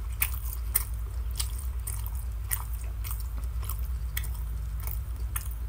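A man chewing a mouthful of roast beef close to the microphone: irregular mouth clicks and smacks about twice a second over a low steady hum. The beef is very chewy.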